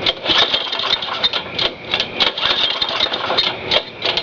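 Small lawn mower engine pull-started and running roughly with an uneven clatter. It has diesel in the cylinder, which fouls its spark plug.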